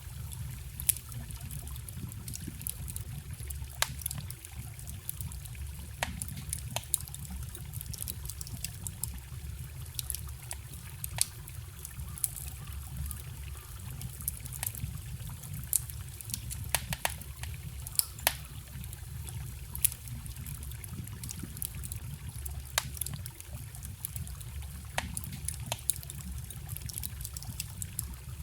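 Wood fire crackling, with sharp irregular pops every second or so, over the steady trickle of a forest stream.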